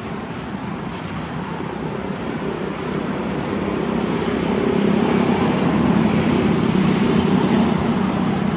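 A motor vehicle's engine hum grows louder as it draws near, loudest in the second half, over a steady high-pitched hiss.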